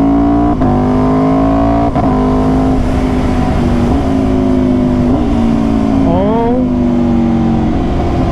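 Aprilia RSV4's V4 engine pulling the bike along under way, its note climbing and dipping briefly at quick upshifts about half a second and two seconds in, holding steady, then falling off near the end as it slows, with wind rushing past.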